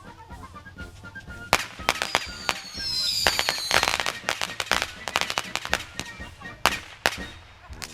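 Fireworks going off: a sharp bang about a second and a half in, then a rapid series of crackling pops with high whistles falling in pitch, thinning to a few separate bangs near the end.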